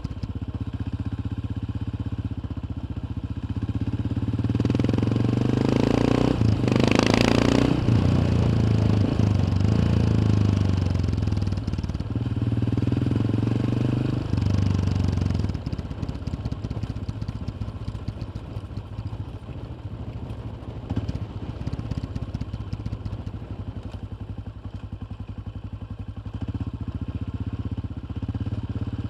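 Yamaha XT 600's single-cylinder four-stroke engine heard onboard while riding, the revs rising and falling through the first half, then running lower and steadier before picking up again near the end. A brief rush of noise about seven seconds in.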